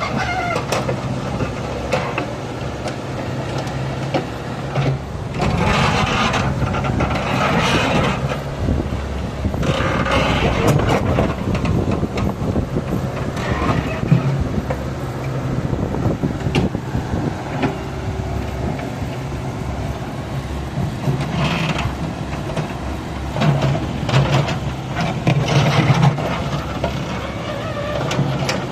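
Mechanical digger's engine running steadily, with several louder, noisy stretches of a few seconds each.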